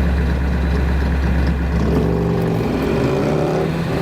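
Car engine heard from inside the cabin, pulling away and accelerating: a steady low rumble, then about halfway through the engine note starts rising in pitch and keeps climbing.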